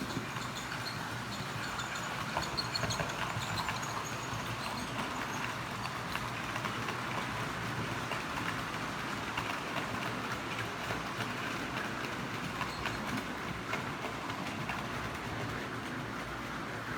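HO-scale model train running along the layout's track: a steady whir with light, rapid clicking of the wheels over the rails.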